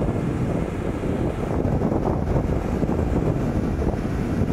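Steady, loud low rushing noise of wind buffeting the microphone over outdoor aircraft ramp noise.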